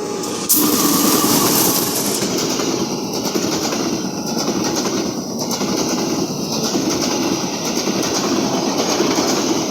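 Passenger train hauled by a CC201 diesel-electric locomotive passing close by. It starts loud suddenly about half a second in, and its steady rumble and wheel clatter has a beat roughly once a second.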